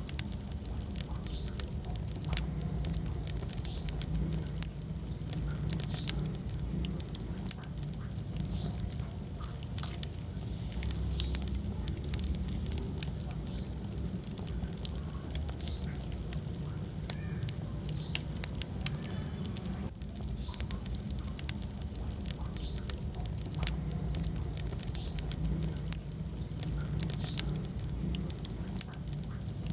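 Wood fire crackling in a fireplace: frequent sharp pops and snaps from the burning logs over a steady low rumble of the flames.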